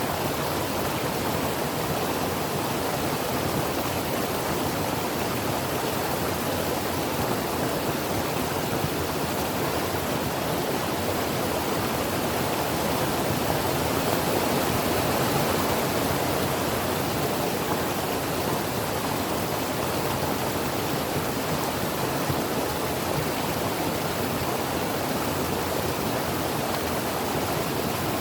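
A creek's water running over rocks: a steady, even rush with no change in pace.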